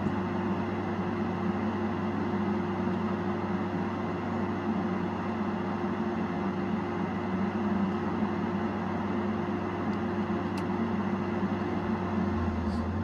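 Tigercat 870C tracked feller buncher's diesel engine running steadily: an even drone with constant low hum tones, holding one speed throughout.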